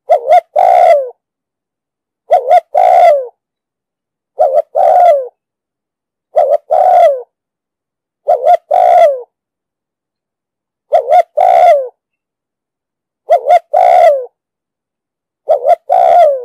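Spotted dove cooing: eight calls about two seconds apart, each two short clipped notes followed by a longer note that falls in pitch at its end.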